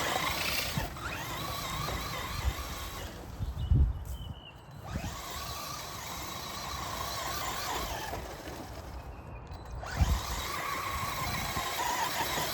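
Electric RC rally car's motor whining as it drives through long grass, the pitch wavering up and down with the throttle. The whine fades away twice and picks up again, with two short low thumps.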